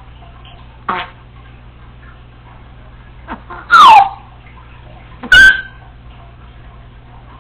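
Congo African grey parrot calling: a short call about a second in, then a very loud whistle that glides down in pitch, and a second sharp, loud call about a second and a half later.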